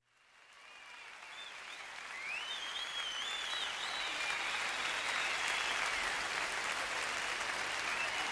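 Crowd applause and cheering with wavering whistles, fading in from silence over the first few seconds and then holding steady.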